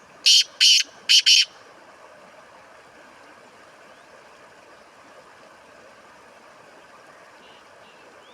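Black francolin calling: a phrase of four loud, short, harsh notes within the first second and a half, then only faint background hiss.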